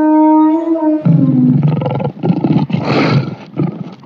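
A long, steady pitched animal call ends about a second in, followed by a big cat's rough, pulsing roar that fades near the end.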